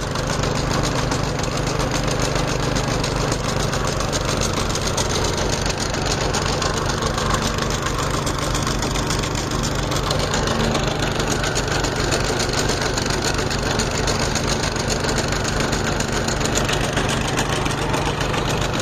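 Diesel engine of a crawler-mounted hydraulic water-well drilling rig running steadily at a constant speed.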